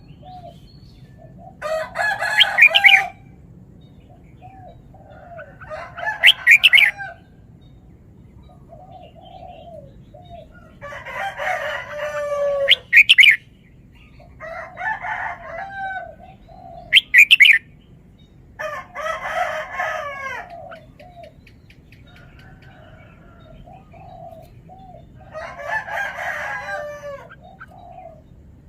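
Caged red-whiskered bulbul singing in short, loud whistled phrases every few seconds, with softer chirps between them.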